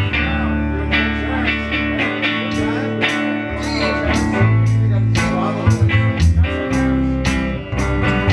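Guitar-led music with no singing: strummed guitar chords over a bass line that moves under them.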